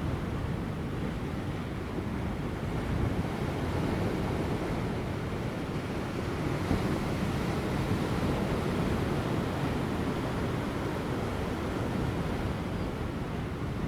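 Large ocean waves breaking on offshore rocks as a steady, low-pitched wash of surf, with light wind on the microphone.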